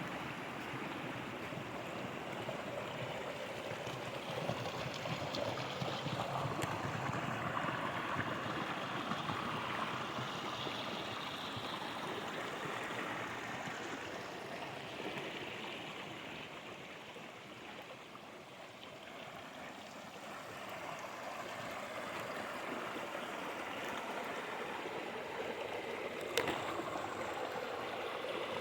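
Water flowing steadily through a small inlet channel, a continuous rushing that softens for a few seconds past the middle and then returns. There is a single sharp click near the end.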